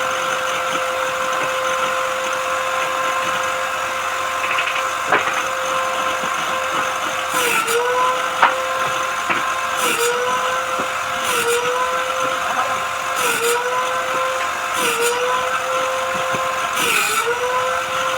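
A high-speed electric woodworking power tool runs steadily with a whine. About six times its pitch dips briefly with a burst of hiss as it bites into the wood and then recovers, and there are a couple of sharp knocks in between.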